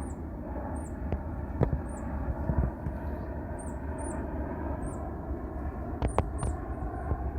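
Airbus A319 airliner on approach, its jet engines heard as a steady rumble and hiss.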